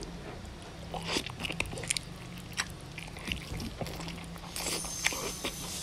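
Close-up biting and chewing of goat meat on the bone: wet mouth sounds with irregular small clicks as the meat is torn and chewed.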